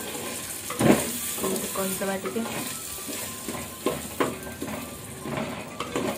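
Wooden spatula stirring and scraping a thick masala with chopped tomatoes in a clay pot, the oil sizzling steadily as the masala is fried down. A few sharper scrapes of the spatula against the clay stand out about a second in and again near four seconds.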